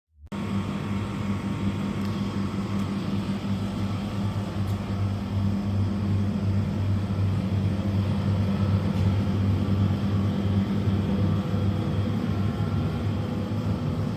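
Double-sided retail display chiller fridge running with a loud, steady low hum and drone, which starts abruptly just after the start. It is an older unit that runs loud.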